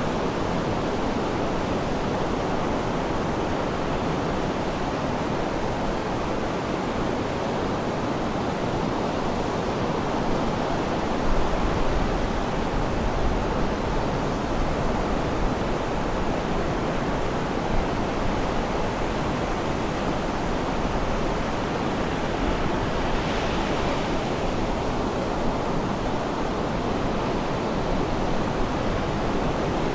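Sea surf washing steadily in a continuous rushing noise, with one brighter wave wash about two-thirds of the way through.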